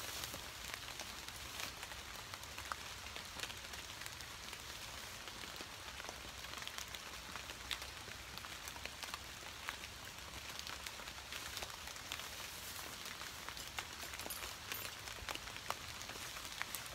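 Steady rain falling on fallen leaves and a tarp, with many scattered sharp ticks from single drops.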